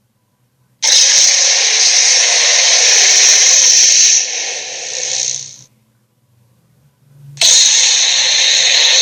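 Fantasy creature sound effect: two long, harsh, hissing blasts with no clear pitch. The first starts abruptly about a second in, holds, then fades. The second starts near the end.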